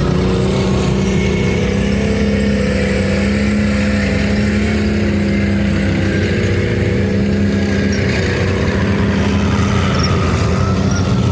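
A heavy military vehicle's engine running steadily, its pitch wavering slightly.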